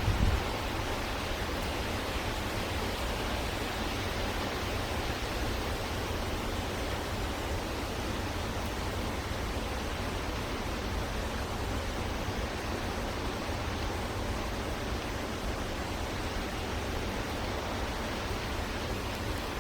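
Steady, even hiss with no distinct calls or events, with a short low bump at the very start.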